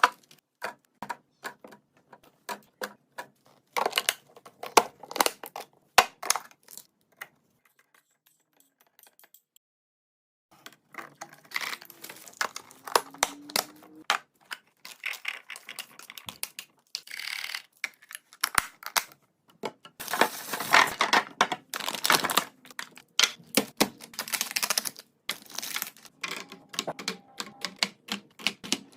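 Hard drink containers and groceries clicking and clattering as they are handled and set into a refrigerator, in quick runs of sharp clicks with a pause of a few seconds about a third of the way in.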